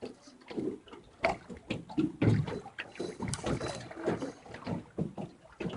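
Small boat on the river: irregular knocks and clunks with faint water noise, as the boat is worked downstream.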